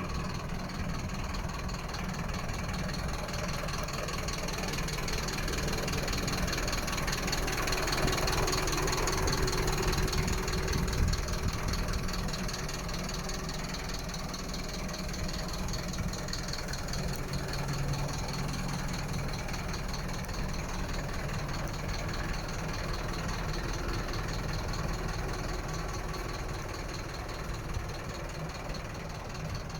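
Mercedes-Benz Atego 1222 truck's diesel engine idling steadily, getting a little louder about a third of the way in.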